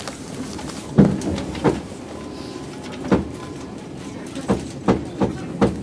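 Inside a 185 series electric train carriage: a steady low rumble with about seven sharp knocks and clunks at uneven intervals.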